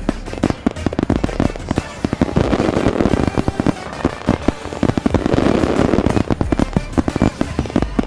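Fireworks display: a dense, continuous barrage of rapid bangs and crackles, with music playing underneath.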